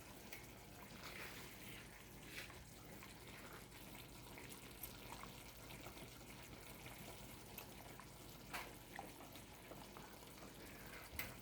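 Faint, scattered pops and crackles over a low hiss: brown stew chicken simmering in its pot on the stove.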